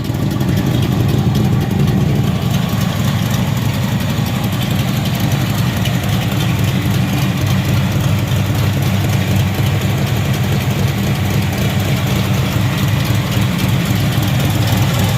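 Rebuilt 355 small-block V8 engine idling steadily, a deep even exhaust note with no revving.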